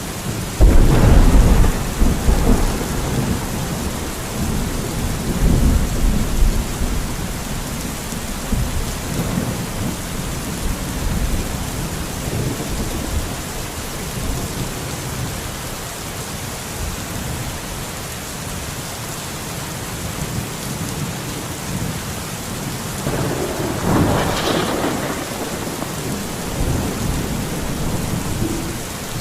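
Steady heavy rain hissing throughout, with thunder. A loud clap comes about half a second in, and its deep rumble rolls on for several seconds. A second, softer roll of thunder swells near the end.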